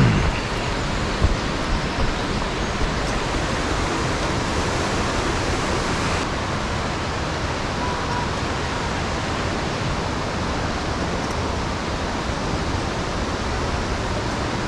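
Steady rushing of a mountain stream, an even wash of water noise, with a few light knocks in the first few seconds.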